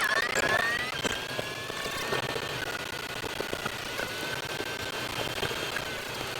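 A vehicle engine running, with a whine that rises in pitch at the start and then holds roughly steady.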